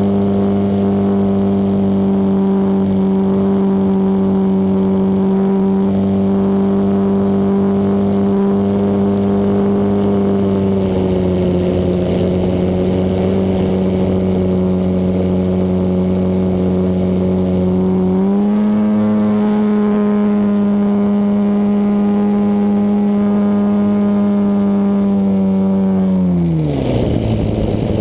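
Desert Aircraft DA-100 twin-cylinder two-stroke gas engine of a large RC aerobatic plane, heard up close from on board, running steadily at high throttle with small shifts in pitch. About a second before the end the throttle comes back and the pitch drops steeply to a low drone.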